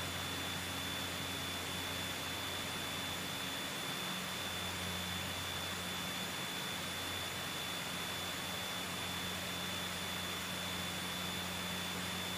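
Scottish Aviation Bulldog's four-cylinder Lycoming engine running at full takeoff power, heard as a steady hiss over a low drone, with a faint constant high whine; the drone's pitch shifts slightly about four seconds in.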